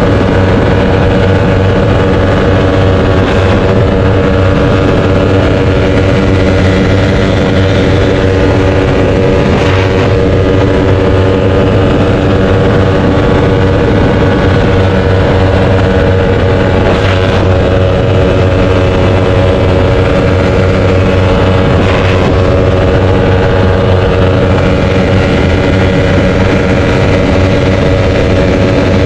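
Small-displacement sport motorcycle engine running at steady revs, its pitch holding level throughout.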